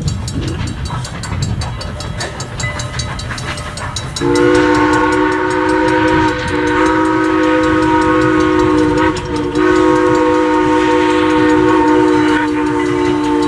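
A passing train rumbles, then about four seconds in a steam locomotive's chime whistle sounds a long chord of several notes. It breaks off briefly twice and sounds again, still blowing at the end.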